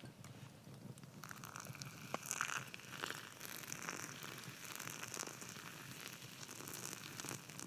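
Rain pattering on a tarp, with scattered crackles and pops from a campfire.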